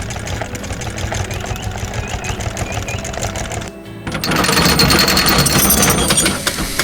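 Rapid mechanical rattling under background music. It breaks off briefly about four seconds in, then returns louder and harsher.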